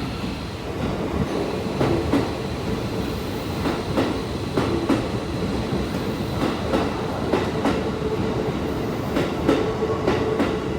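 Keikyu Main Line electric train moving through the platform, its wheels clicking over the rail joints at uneven intervals over a steady rumble, with a steady tone held underneath.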